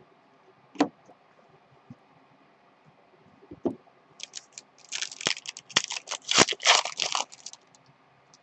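A foil trading-card pack being torn open and crinkled: a dense run of ripping and crackling that lasts about three seconds, starting around the middle, after two single handling knocks.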